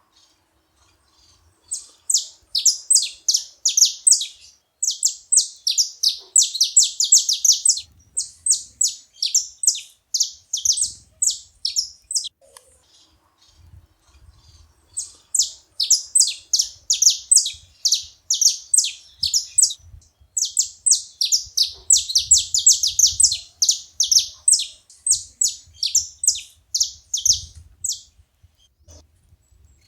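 Saffron finch singing: two long bouts of rapid, repeated high chirps. The first starts about two seconds in, there is a short pause near the middle, and the second bout ends a little before the close.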